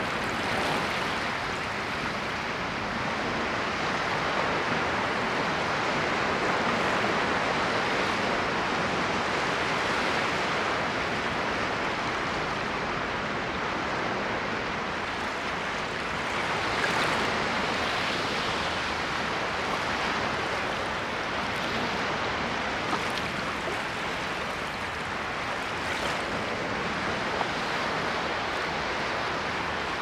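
Ocean waves washing on a shore, a steady hiss of surf that swells and eases gently, with one somewhat stronger wave about seventeen seconds in.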